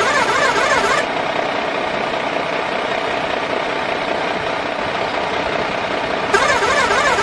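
Radio-controlled toy truck running steadily with a mechanical engine-like drone. A brighter warbling whine rides over it until about a second in and returns near the end.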